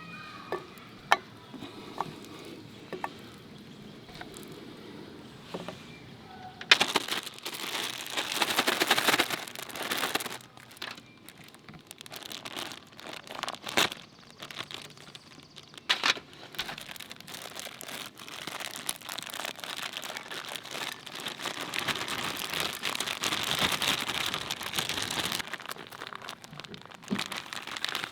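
Crinkling and crackling in irregular bursts, like wrapping material being handled, louder from about seven seconds in, with a few sharp clicks before it.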